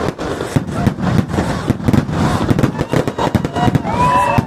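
Fireworks going off in a rapid, irregular barrage of bangs and crackles, with whistling glides rising and falling near the end.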